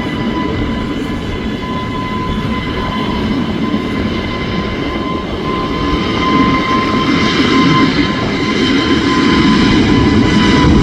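A jet airliner's engines at takeoff power: a steady rush with a high whine, growing gradually louder.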